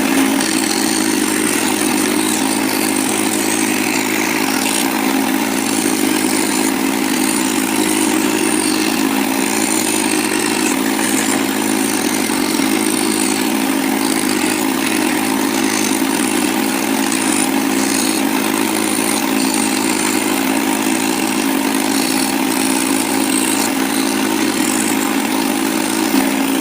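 Electric jigsaw running steadily as it cuts through wood: a constant motor hum with the buzz of the reciprocating blade.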